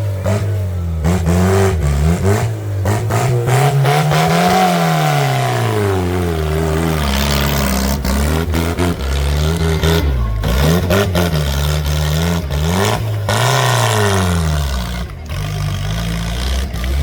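Tractor engine revving up and down several times under load, with clattering and rushing noise over it, as when a tractor fights through mud.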